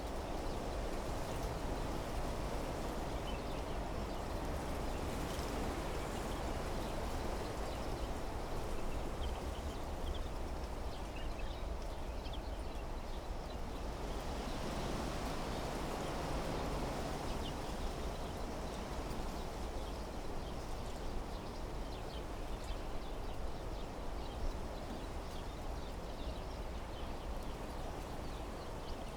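Wind blowing through trees, steady with a swell about halfway through, with scattered faint bird chirps.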